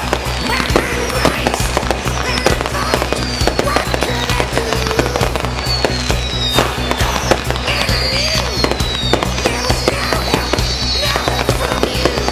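Aerial fireworks going off in a rapid, continuous string of bangs and crackles, with several short falling whistles, over music with a steady low beat.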